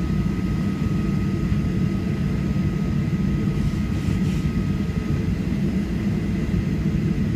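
Steady cabin noise inside a Boeing 737-800 waiting on the ground with its jet engines idling: an even low rumble, with a thin high whine that stops about five seconds in.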